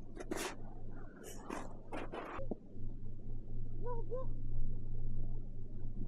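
Several brief scraping or rustling noises, then two short rising-and-falling animal calls about four seconds in, over a steady low hum.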